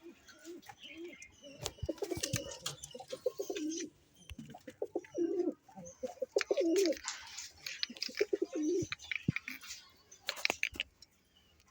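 Pigeons cooing over and over in short bursts, with higher bird chirps and twitters and scattered sharp clicks mixed in.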